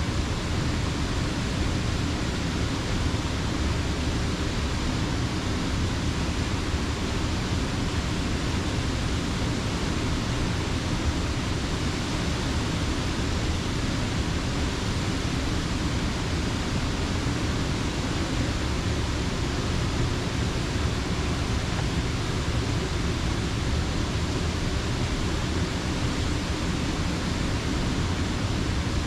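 Steady, unbroken rush of creek water pouring over a mill dam, full and low-heavy, with no change in level.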